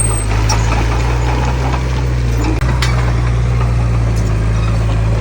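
Heavy diesel engine of earthmoving equipment running steadily, with a single click about three seconds in.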